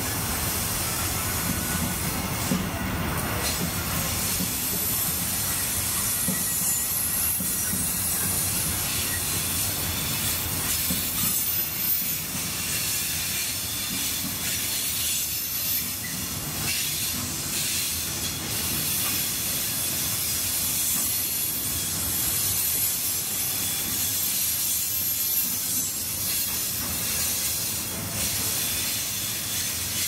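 Container freight train's wagons rolling steadily past: a continuous rumble of wheels on rail with a strong hiss over it.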